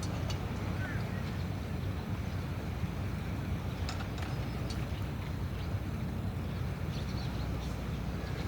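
Steady low rumble of surf and wind at the seashore, with a few faint, short high-pitched chirps and ticks over it.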